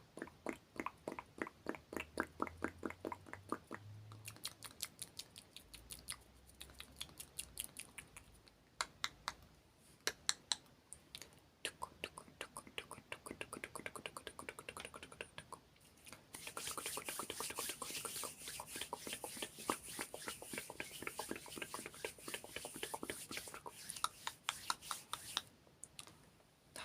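ASMR mouth and hand sounds close to the microphone: rapid runs of small wet clicks and smacks, several a second. About two-thirds of the way through, a steady rustling hiss of hands rubbing comes in under the clicks for several seconds.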